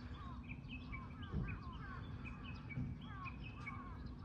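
Small birds chirping and twittering: many short, quick calls overlapping throughout, over a low, steady hum.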